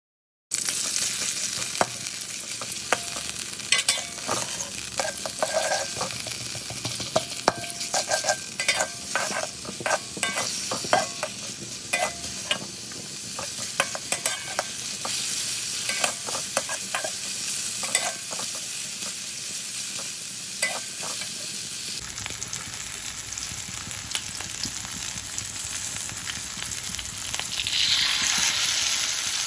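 Onion and garlic sizzling in oil in a hot wok, with the spatula scraping and clacking against the wok many times as it stirs. Near the end the sizzle rises as canned anchovies in chilli sauce are poured into the wok.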